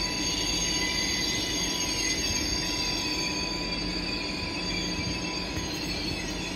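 ICE high-speed train rolling slowly through the station, its wheels squealing on the rails in several steady high tones over a continuous low rumble.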